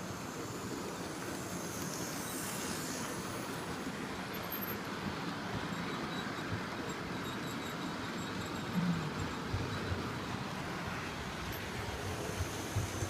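A train running, a steady rumble with a few low knocks about nine seconds in and again near the end.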